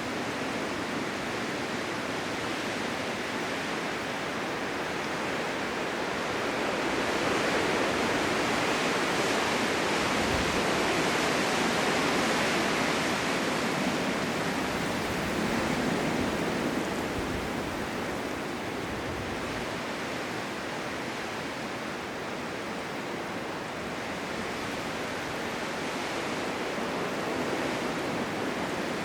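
Blizzard ambience: a steady rush of wind-driven snow, swelling louder for several seconds about a quarter of the way in and easing off again.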